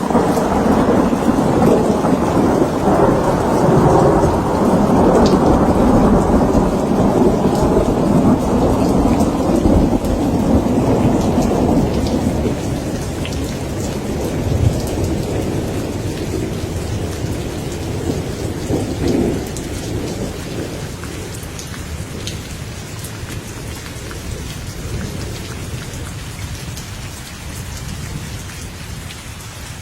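Steady rain with a long rolling rumble of thunder that is loudest over the first dozen seconds, then dies away by about twenty seconds in, leaving the rain alone.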